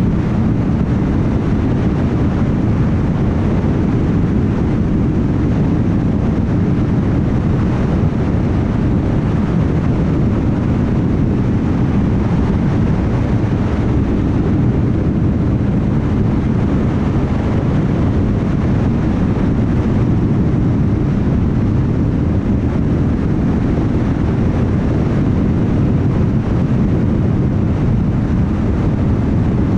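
Car driving at highway speed: steady road and tyre noise with a low engine drone.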